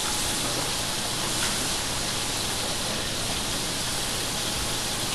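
Ground beef patty and french fries frying in hot oil on the stove, a steady sizzle.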